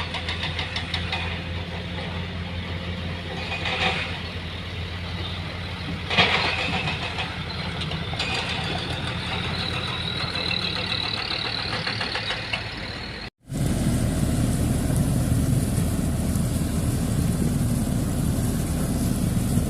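Diesel engines of heavy construction machinery (dump truck or excavator) running steadily. About two-thirds of the way through, a cut brings in a louder, rougher engine rumble.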